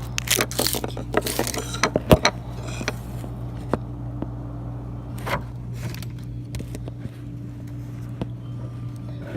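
A few sharp clicks and scrapes of things being handled, bunched in the first two seconds and then sparse, over a steady low electrical hum.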